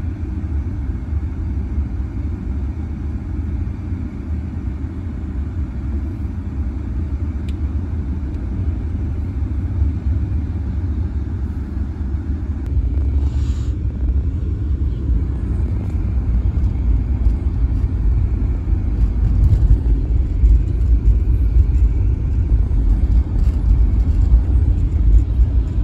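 Steady low rumble of a passing CSX freight train, heard muffled through the closed windows of a car's cabin. It grows louder in the last third.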